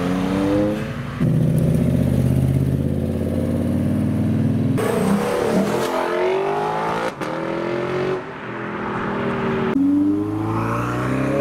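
Several sports cars accelerating away one after another, joined by abrupt cuts: a Honda S660's small 660cc engine, then a Lexus LC and a Ferrari 488 revving with rising pitch through gear changes. Between about one and five seconds in, a deep, steady engine note.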